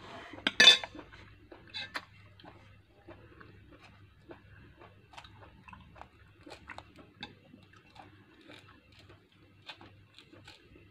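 Close-up mouth sounds of chewing, and small crackles and tearing as an orange is peeled by hand, after one loud, sharp sound about half a second in.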